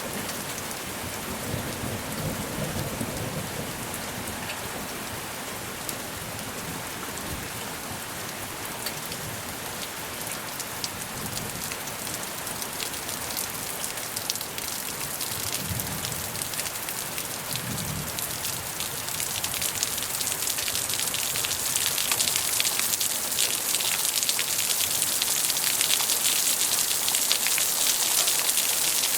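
Steady rain falling on surfaces, an even hiss that grows heavier and louder about twenty seconds in, with a few brief low rumbles of distant thunder.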